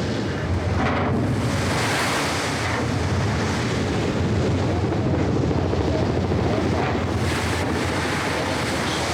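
Rescue helicopter hovering: a steady rush of rotor and engine noise mixed with heavy wind blowing across the microphone.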